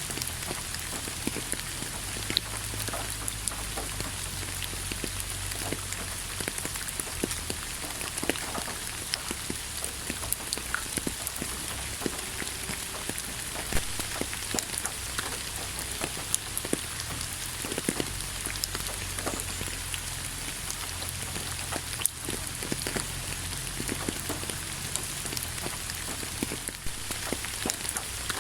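Steady rain: an even hiss with many separate drops striking a surface, over a low steady rumble.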